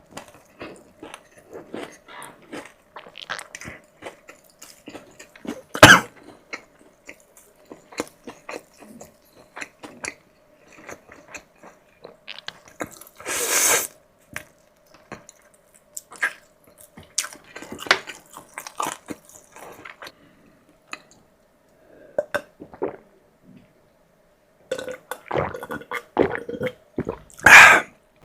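Close-miked chewing and biting of food, with irregular small crunches and clicks. A single sharp, loud crunch comes about six seconds in. Two brief noisy rushes come about halfway through and near the end.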